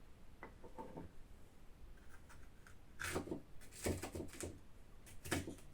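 Kitchen knife knocking on a cutting board as an onion is roughly chopped: a few irregular knocks, starting about three seconds in.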